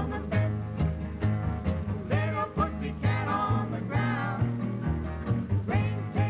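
Upbeat 1960s folk song played by a band on acoustic guitars over a bass line that keeps a steady beat, with a pitched melody line running above it.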